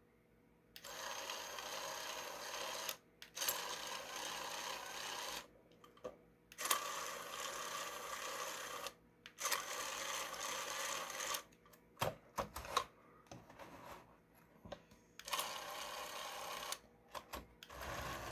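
Small TT gear motor driving a toy bulldozer's 3D-printed, print-in-place plastic tracks. It runs in buzzing spurts of about two seconds, stopping and starting about six times, with a few sharp clicks between runs.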